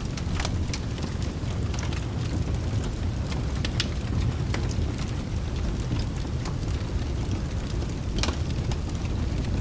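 Rain and a crackling fireplace mixed as cabin ambience: a steady low rumble of rain with scattered sharp crackles and pops from the fire, one louder pop near the end.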